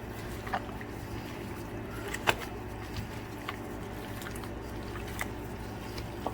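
Hands rubbing seasoning into raw chicken pieces in a bowl: soft wet squishing with scattered small clicks, the sharpest a little over two seconds in, over a steady low hum.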